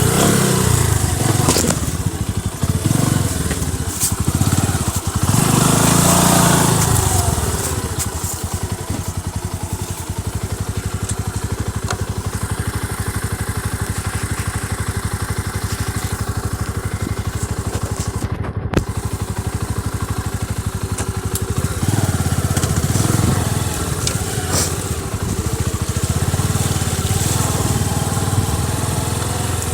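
Motorcycle engine running under way, the revs rising and falling: pulls near the start and about six seconds in, steadier running through the middle, then more rising and easing off from about twenty-two seconds on.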